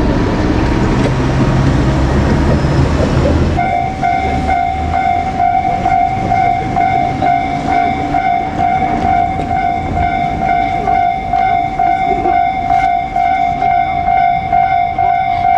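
A train passing over a level crossing: a loud rush and rumble of wheels that stops abruptly about three and a half seconds in. It leaves the electronic Japanese level-crossing alarm ringing on its own, a steady, evenly repeating ding.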